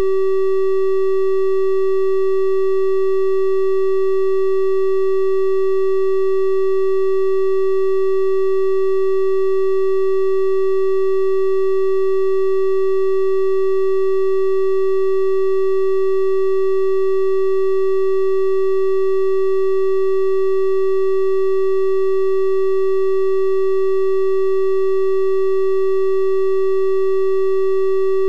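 Synthesized 384 Hz triangle-wave test tone, held steady at one pitch with soft upper overtones.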